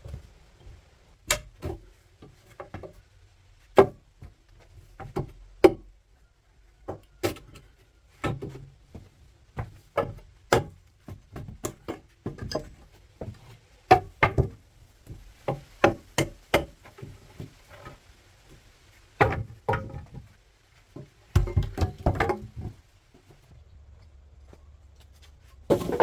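Irregular series of sharp knocks and taps, one or two a second, from hand work on a brick-built coop, with a denser flurry of knocks near the end.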